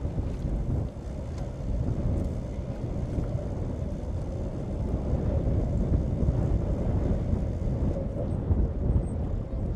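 A boat's motor running steadily, a low rumble with wind buffeting the microphone.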